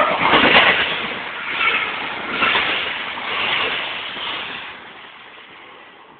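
A train running past on the rails, its noise loudest at first and then fading steadily as it moves away.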